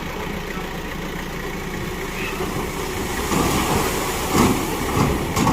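Heavy earthmoving machine's engine running steadily; about three seconds in it grows louder, with three short, sharper bursts of noise near the end.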